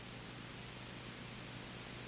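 Steady, even hiss with a low steady hum beneath it and nothing else: the background noise of an old video recording's soundtrack.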